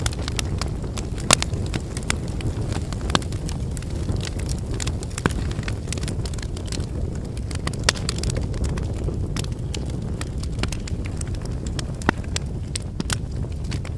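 Wood campfire crackling: frequent sharp snaps and pops from burning logs over a steady low rush of flame, with a few louder pops scattered through.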